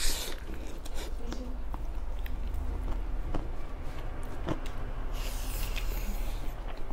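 Eating sounds of people eating rice and pork by hand: chewing and lip smacks, with scattered soft clicks and a short hiss about five seconds in.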